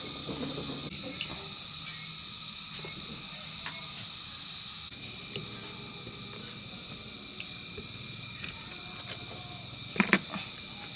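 Steady high-pitched chorus of insects, with two sharp clicks close together about ten seconds in.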